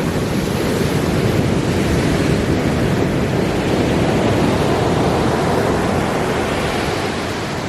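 Ocean surf rushing onto the beach, a loud steady wash of noise that eases slightly near the end.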